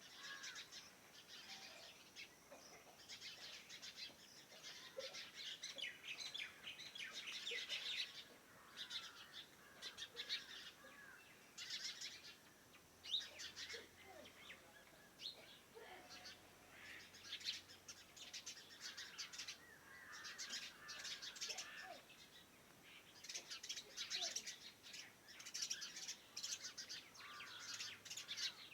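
Several small birds chirping and twittering in a morning chorus, their calls overlapping almost without a break, with louder bursts every few seconds.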